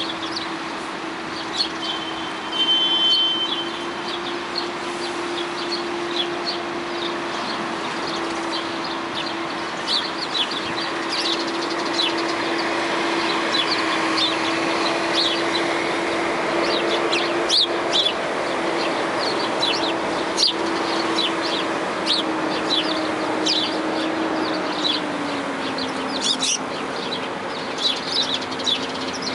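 Many small birds chirping busily, with short high chirps coming several times a second, over a steady low hum that drops in pitch near the end.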